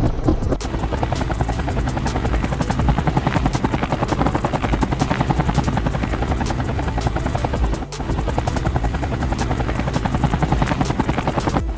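Toy remote-control helicopter's rotor blades and electric motor running in flight: a fast, steady chopping whirr, dipping for a moment about eight seconds in.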